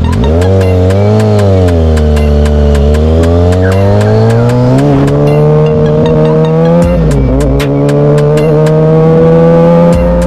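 Motorcycle engine running on the move, its pitch rising and falling with the throttle. It climbs steadily through the middle, drops sharply about seven seconds in, then climbs again.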